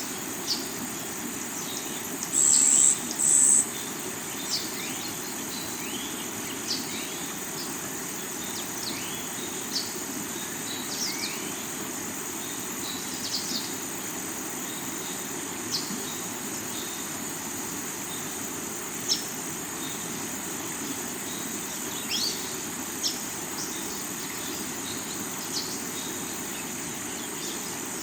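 Rocky river water rushing steadily under a constant high drone of crickets, with scattered short bird chirps. Two brief, loud, high buzzes come close together about three seconds in.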